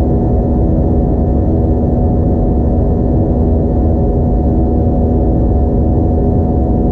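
Steady low drone of an Airbus A320-232's IAE V2500 engines and airflow, heard inside the passenger cabin, with several steady tones held through it.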